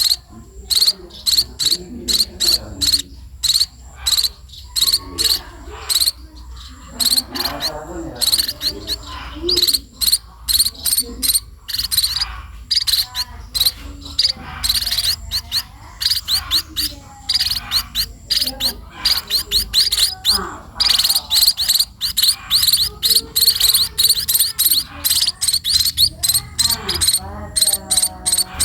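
Small pipit birds chirping in rapid, high-pitched runs of short chirps that go on throughout, with brief pauses between runs.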